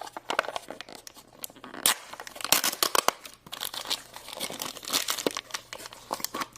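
Plastic and foil packaging being torn open and crinkled by hand, a dense run of irregular crackles and rips as a Num Noms surprise cup is unwrapped.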